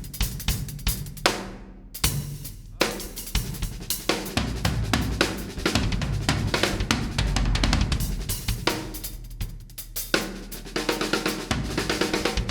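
Acoustic drum kit played continuously, with snare and tom strokes, bass drum and cymbals, and dense runs of fast hits.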